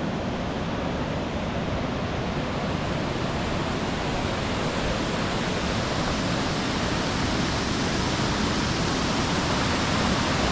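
Steady rushing of a rocky stream's flowing water, slowly growing a little louder.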